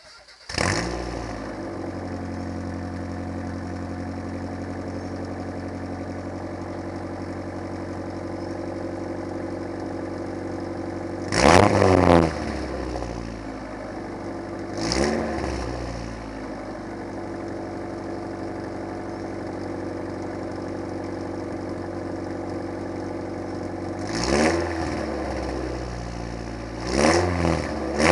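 1988 Mazda 323's four-cylinder engine breathing through a 2.5-inch straight-pipe exhaust with no muffler, starting up and then idling steadily. It is revved briefly several times: a double blip partway through, a single one a few seconds later, and more blips near the end.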